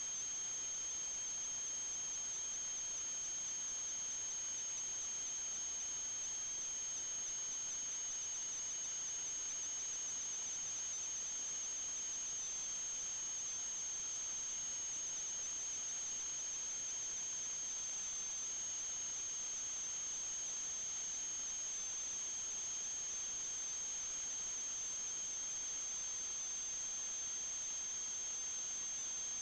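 Steady high-pitched electronic whine with a fainter lower tone beneath it, over constant hiss: noise in the sewer camera's recording rather than any sound from the pipe.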